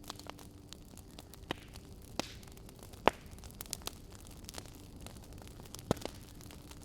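Wood fire crackling, with scattered sharp pops over a low hiss; the loudest pops come about three seconds in and near six seconds.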